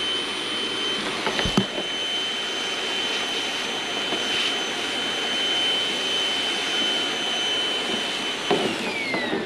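Electric motor of a cleanup machine, a vacuum or blower used on metal shavings, running steadily with a high whine over a rush of air. Near the end it is switched off and the whine falls in pitch as the motor winds down.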